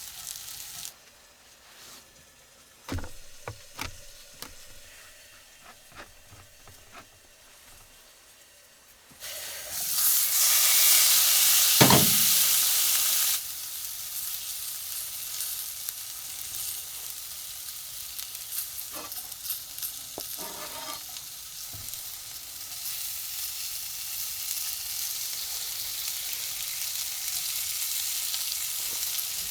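Ribeye steak frying in a pan. After a few clicks and knocks, a loud surge of sizzling begins about nine seconds in, then eases after about four seconds to a steady sizzle.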